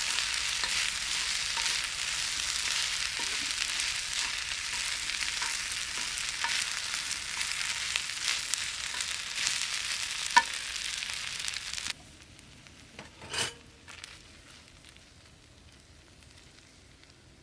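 Food sizzling in a pan, a steady hiss with scattered pops, which cuts off suddenly about twelve seconds in; a few soft knocks follow.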